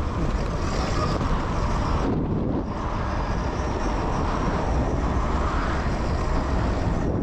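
Zero FX electric dirt bike ridden over a dirt trail: steady wind and ride noise on the microphone with a deep rumble, and a whir that rises and falls with speed.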